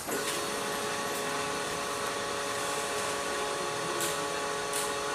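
Benelli TNT 600i's 600 cc inline-four engine running steadily at idle through an IXIL X55 slip-on exhaust, an even, unchanging note.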